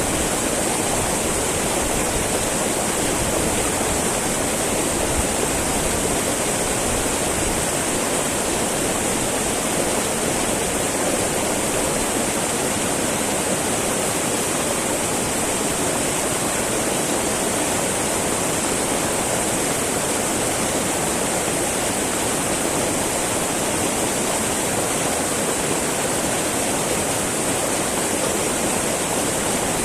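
Small mountain river babbling and rushing over rocks, a steady, unbroken flow of water with a bright hiss.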